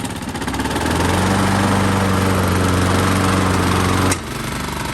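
Small lawn mower engine running after its rusty flywheel was sanded and the carburetor and spark plug cleaned: it picks up speed about a second in, runs steadily, then drops abruptly to a lower speed with a click near the end and keeps running smoothly.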